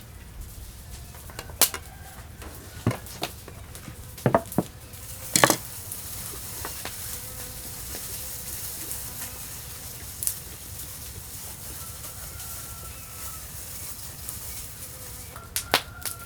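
Food sizzling as it fries in a pan. A few sharp knocks come in the first several seconds, and the steady high sizzle takes over from about six seconds in, with two more knocks near the end.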